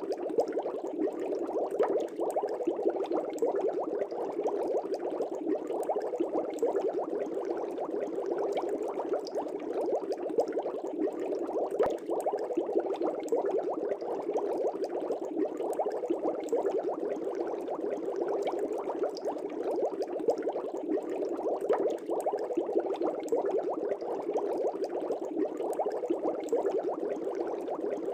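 Air bubbles streaming up through fish-tank water, a steady, dense bubbling.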